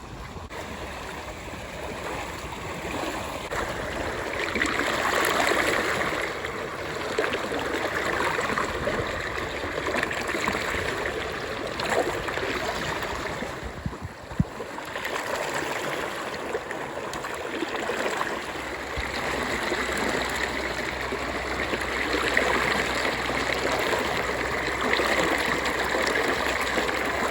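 River water running over rocks in a shallow riffle: a steady rushing and gurgling that swells and eases, with one sharp tick about halfway through.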